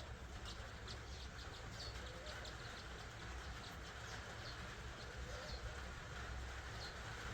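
Small birds chirping in the background: short, high chirps at irregular intervals over a steady low rumble.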